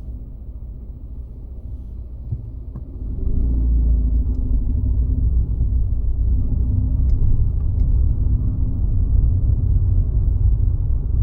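Car driving along, with a steady low road and engine rumble that gets louder about three seconds in.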